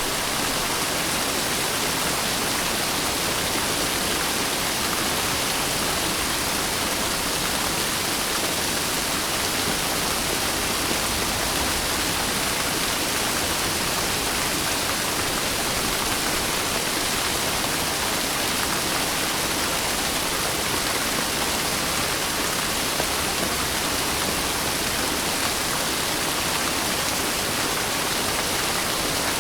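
Steady heavy rain, an even hiss with no distinct drops or breaks.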